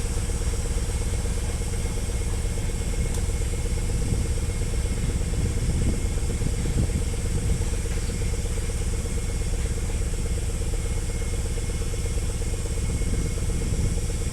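2EL5 electric freight locomotive running with a freight train: a steady hum over a continuous low rumble, without a break.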